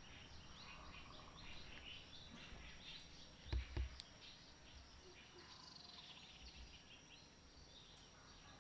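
Faint outdoor ambience of small birds chirping in the background, many short chirps. Two low thumps come a little past the middle.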